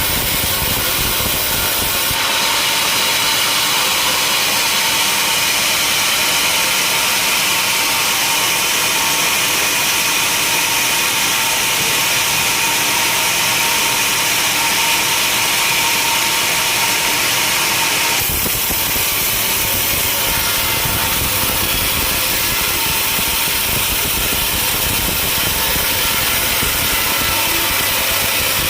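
Sawmill machinery running steadily, a dense mechanical noise; about two seconds in it turns abruptly thinner and hissier, and near the eighteen-second mark it drops back to a fuller, lower rumble.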